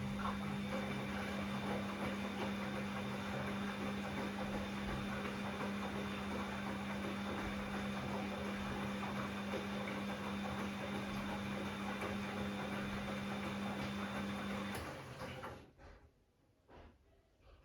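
Bosch Classixx 6 washing machine running in its rinse: a steady hum over a hiss of water, which stops about 15 seconds in, followed by a few faint clicks.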